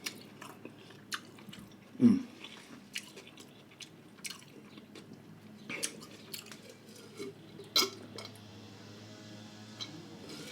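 Close-miked chewing and mouth sounds of a person eating: scattered wet clicks and smacks, with one louder, lower sound about two seconds in.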